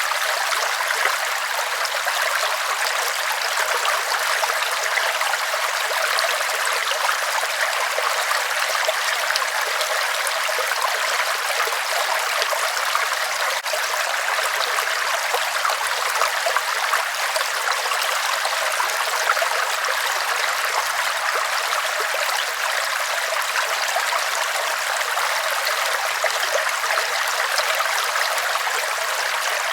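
River water rushing steadily: an even, unbroken hiss of flowing water with little deep rumble.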